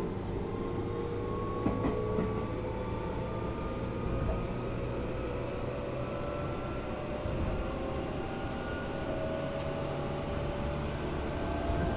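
Resistance-controlled Tobu 8000 series electric train running, with a whine that rises slowly in pitch as the train picks up speed. A couple of short knocks come about two seconds in.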